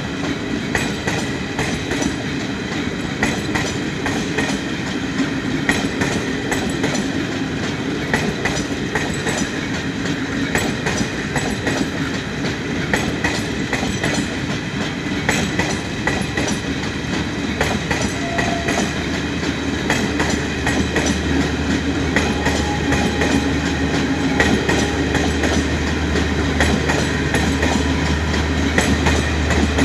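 Train wheels running over the rails with a continuous clickety-clack of clicks over the rail joints. A low steady hum comes in about two-thirds of the way through.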